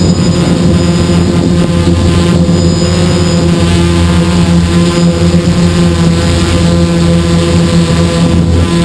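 XAircraft hexacopter's electric motors and propellers running steadily in flight, a loud even drone with several steady tones, heard close up from the onboard camera.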